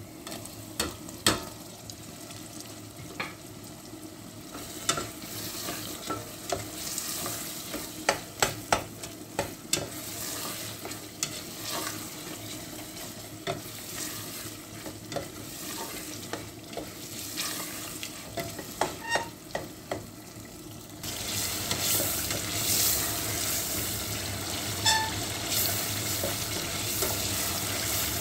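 Tomato pieces frying in oil with an onion-and-spice masala in a stainless steel pot: a steady sizzle, with frequent clicks and scrapes of a spatula stirring against the pot. The sizzle grows clearly louder about two-thirds of the way through.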